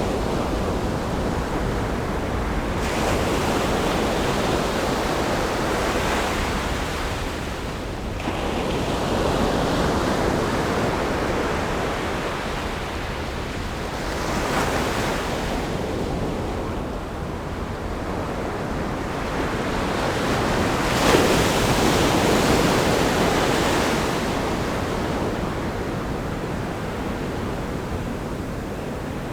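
Ocean waves breaking against a rock groin and washing up a sandy beach: a continuous surf with surges every few seconds, the loudest a sharp crash about two-thirds of the way through. Light wind on the microphone.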